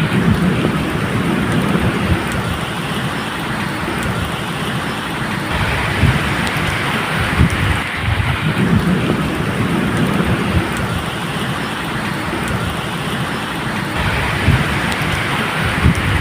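Steady medium rain falling, with low thunder rumbling in several swells, near the start, in the middle and near the end.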